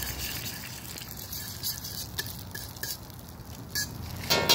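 Eggs and Thai basil sizzling in hot oil in a wok, with scattered crackles, as a metal spatula stirs them. Near the end the spatula clanks against the wok a few times, and the metal rings briefly.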